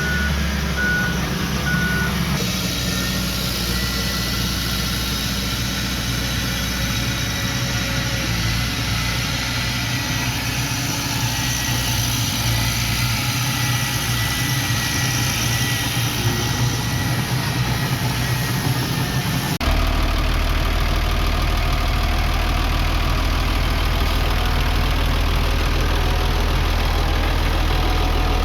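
Diesel engine of earth-moving machinery running steadily, with three short high beeps in the first two seconds. The engine sound changes abruptly twice, as between separate takes.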